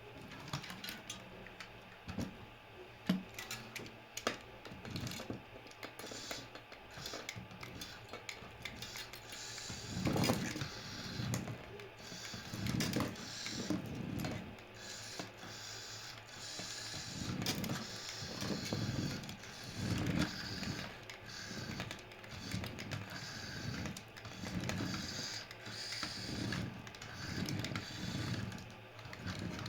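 Small electric motor and plastic gearbox of a toy RC car whirring in short repeated bursts, as if driven back and forth by remote. There are scattered clicks for the first several seconds, and the bursts come about every second from roughly a third of the way in.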